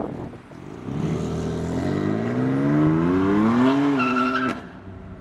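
A car accelerating hard. The engine note climbs steadily for about two seconds, holds briefly, then cuts off abruptly.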